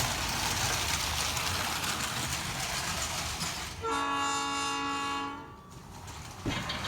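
A steady rushing noise, then a train horn sounding one chord-like blast of about two seconds a little past halfway.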